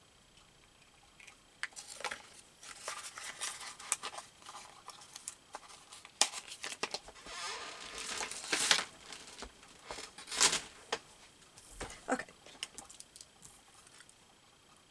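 Paper scraps rustling and crinkling as they are handled, with scattered sharp clicks and taps, in irregular bursts from about two seconds in until shortly before the end.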